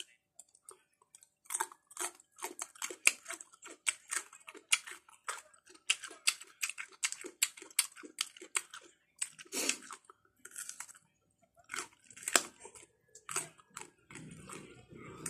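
Close-up chewing of crisp papaya slices: a quick, irregular run of wet crunches from biting and mashing the firm flesh, with a couple of short pauses.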